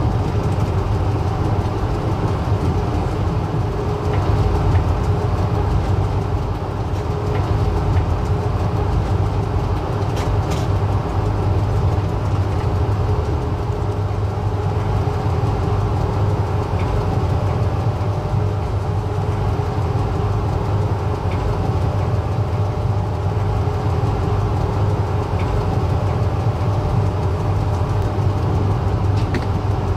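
Passenger train running steadily, heard from inside a carriage: a constant low rumble with a faint hum and a few light clicks now and then.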